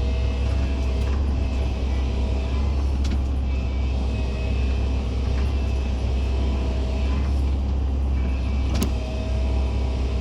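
Excavator's diesel engine running steadily under load, with a thin whine from the hydraulics coming and going as the arm and bucket work, and a few light clicks.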